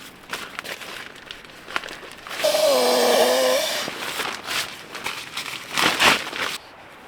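Rustling and crinkling of handled gear with small clicks. About two and a half seconds in comes a louder, drawn-out rasp with a wavering pitch lasting over a second, and a second scrape follows near six seconds.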